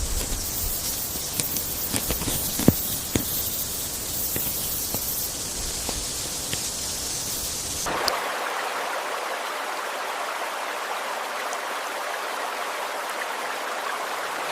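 A steady rushing hiss like rain, with a few faint clicks in the first half. About eight seconds in it changes abruptly to a brighter, thinner hiss with the low rumble gone.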